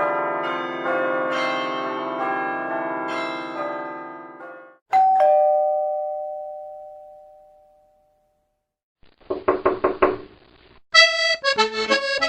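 A string of separate sound effects: a cluster of ringing bell-like chimes fading out, then a two-note ding-dong doorbell chime, higher note first, dying away slowly. After a short silence comes a quick run of taps, about six a second, and then a short bright run of high chime notes.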